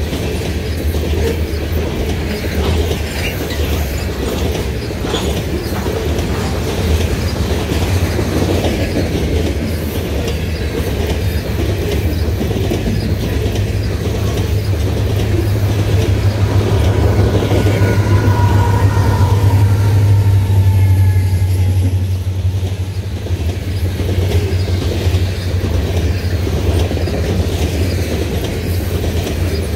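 Steel wheels of covered hopper cars rolling along the rail in a steady deep rumble, with a regular clicking as each truck passes. A faint wavering squeal from the wheels comes in about two-thirds of the way through.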